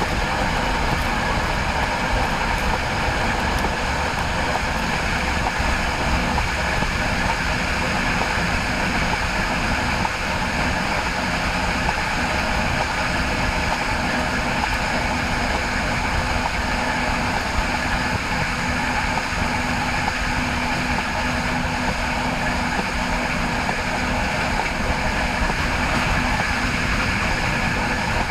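Steady running noise of train wheels rolling on the rails, an even rumble and hiss with a faint steady hum in it.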